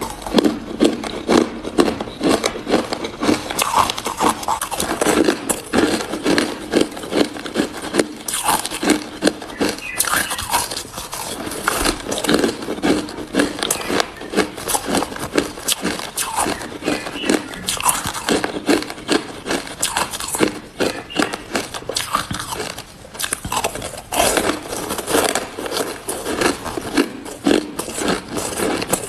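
Close-miked crunching and chewing of hard ice: a dense, uneven run of sharp crackling bites and grinding, several a second, with brief pauses between mouthfuls.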